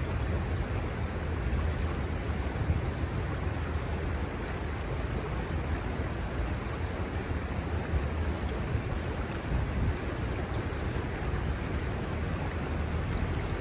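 Steady rushing of the shallow Kamo River flowing, with a low, unsteady rumble of wind on the microphone underneath.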